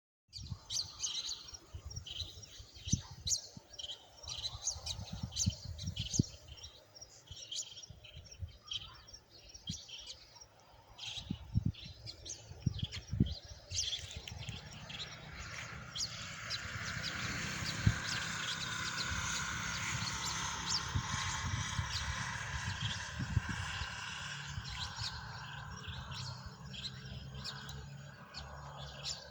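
Birds chirping with many short, repeated high notes. About halfway through, a steady rushing noise rises and holds under the birdsong.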